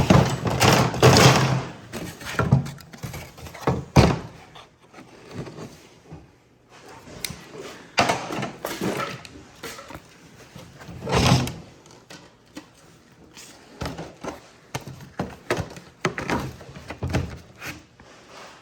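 Irregular thunks and knocks with scraping and rustling handling noise as a padded cat-house door is worked on and fitted, with a sharp knock about four seconds in.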